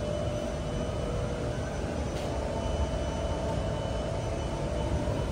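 North East Line metro train pulling out of the platform: a steady mechanical hum with faint steady tones, no clear sudden events.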